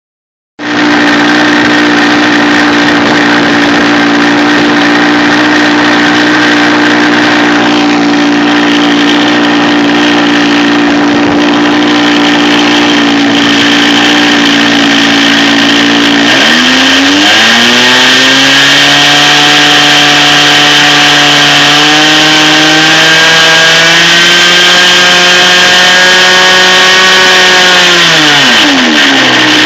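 OS 46 FX two-stroke glow engine of a radio-controlled model plane running, cutting in suddenly about half a second in and holding a steady pitch. About halfway through, the throttle opens and the pitch climbs to a higher steady note, then drops back just before the end. The owner says the engine's bearings are bad.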